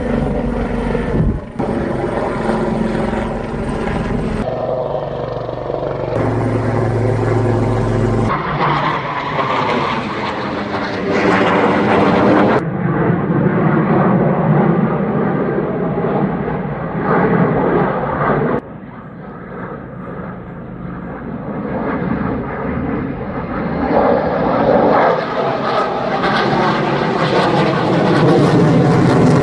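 Low-flying military aircraft circling overhead: a loud engine drone that swells and bends in pitch as the aircraft passes, broken by several abrupt cuts.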